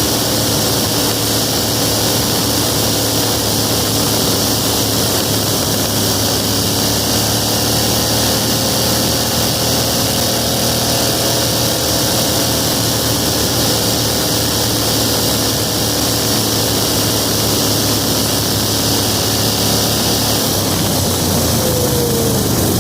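The 18 hp V-twin engine of a big-block minibike running under way at a fairly steady throttle, its pitch wandering slowly, with a steady hiss over it. Near the end the pitch falls away as the throttle comes off.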